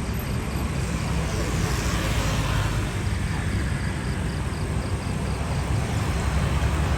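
Low, steady rumble of a Boeing 787-10's jet engines on the airfield, with a swell of rushing noise about two seconds in.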